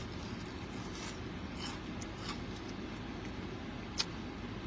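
Quiet chewing of a battered, fried onion ring, with a few faint crunches and one sharp click about four seconds in, over a steady low hum inside a car.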